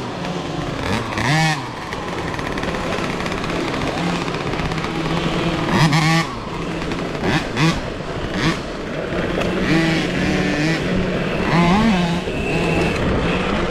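Small youth motocross bikes revving, several engine or motor pitches rising and falling again and again as the bikes accelerate and back off.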